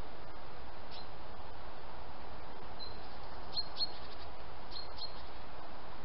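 A few short, high bird chirps from a small songbird: one about a second in, then two pairs in the second half, over a steady hiss.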